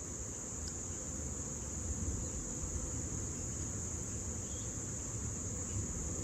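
Insects chirring in one steady, unbroken high-pitched drone, with a low rumble underneath.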